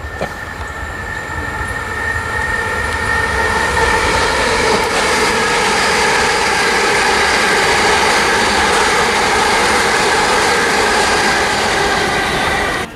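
Gatwick Express Class 387 electric multiple unit passing through the station, a steady rush of wheels on rail with an even whine over it. The sound builds over the first few seconds, holds level, then cuts off abruptly near the end.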